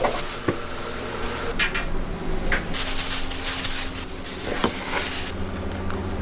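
Dishes and utensils clinking and knocking over a steady background of kitchen noise.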